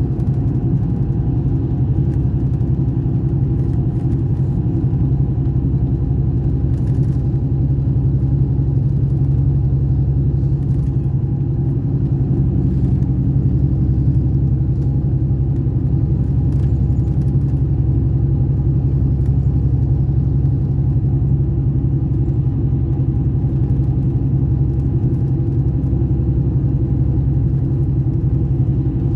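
Scania K420 coach's six-cylinder diesel engine running at a steady speed, a loud, even, low rumble that does not rise or fall.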